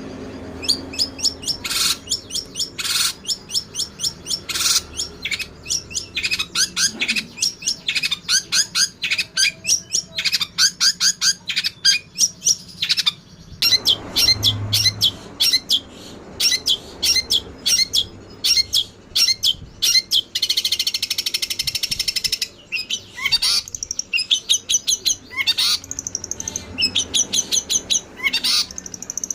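Songbird chirping in quick, repeated high notes, several a second, with a denser flurry of chirps a little past the middle.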